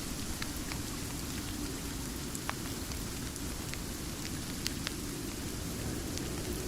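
Steady rain falling, a dense, even hiss with a strong low rumble, with a few sharp ticks scattered through it.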